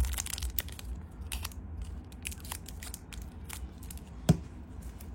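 Scattered small clicks, taps and crinkles of Zippo lighters and their boxes and packaging being handled, with one louder knock about four seconds in.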